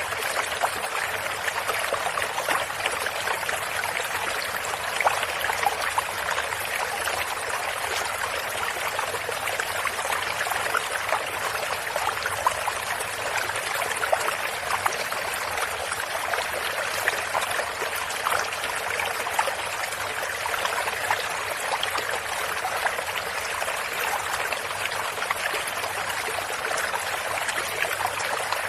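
A stream of running water flowing and trickling steadily, with many small splashes and droplets.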